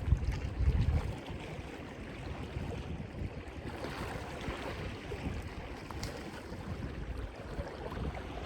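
Wind buffeting the microphone in low gusts during the first second, then a steady wash of surf.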